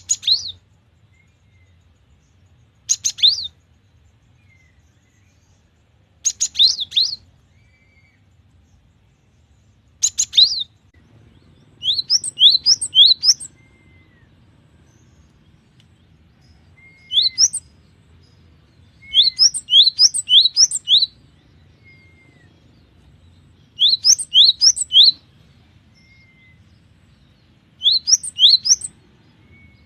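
Cinereous tit (gelatik batu) singing in short bouts of quick, clear, sharp notes, each bout a second or two long, repeated every few seconds.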